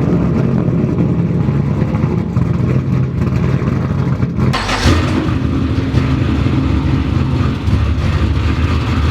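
Turbocharged LS3 V8 running steadily just after firing up on its large fuel injectors, with a brief rise about five seconds in.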